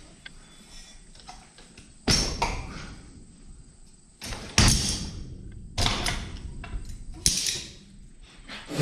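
Four loud clunks and thuds, spread a second or so apart, each dying away quickly: the sound of handling a Rotax 447 two-stroke engine as it is worked free of its mount and lifted off.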